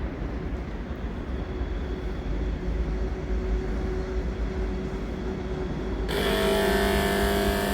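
Train at a main-station platform: a low rumble, then about six seconds in a sudden switch to a louder train sound with a steady whine over it.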